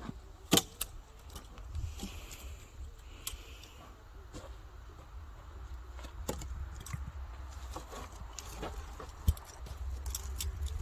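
Scattered light knocks and clinks, with two sharper knocks about half a second in and near the end, over a low rumble.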